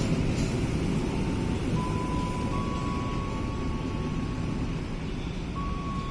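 Passenger train rolling slowly into the station: a steady low rumble that fades a little, with thin squealing tones from the wheels or brakes that step between a few pitches.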